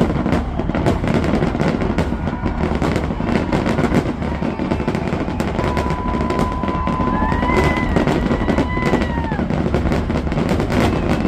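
Fireworks display going off in a rapid, unbroken barrage of bangs and crackles. A high whistle sounds for a few seconds past the middle and dips in pitch as it ends.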